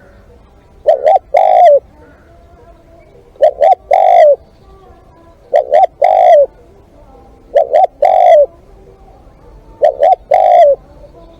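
Spotted dove cooing: five repeated phrases about two seconds apart, each two short clipped notes followed by a longer, drawn-out coo.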